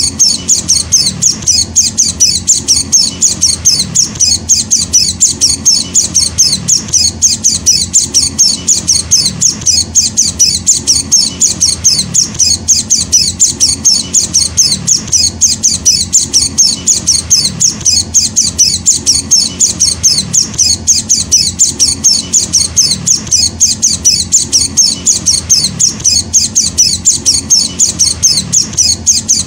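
Young white-eye (Zosterops, pleci) chick calling in a rapid, even string of short, high chirps, about four a second, without a break: the begging call of a hand-fed fledgling.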